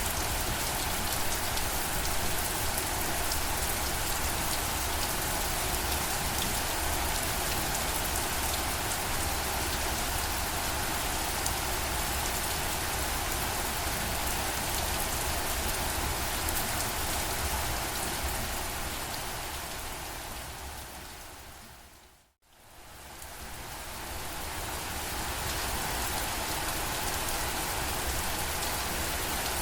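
Steady rain falling and pattering on a surface. About two-thirds of the way through, it fades smoothly down to silence for a moment and then fades back up to the same steady level.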